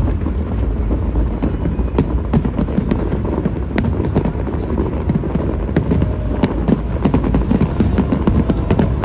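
Fireworks bursting in a dense barrage: many sharp bangs and crackles, one after another, over a continuous low rumble.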